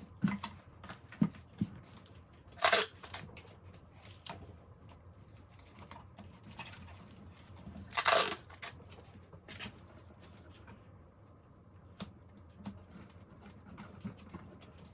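Hands working with craft materials: two short tearing sounds, about three seconds and eight seconds in, with small clicks and rustles between them.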